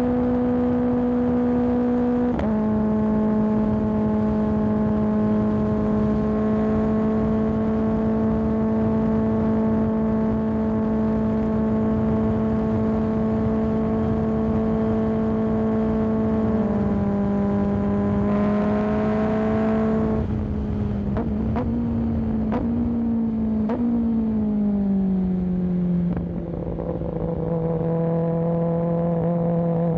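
Kawasaki ZX10R inline-four sportbike engine through an M4 aftermarket exhaust, cruising at a steady pitch. The pitch steps down once early, climbs as the bike accelerates just past halfway, then falls away with a few sharp clicks before settling into a lower steady drone.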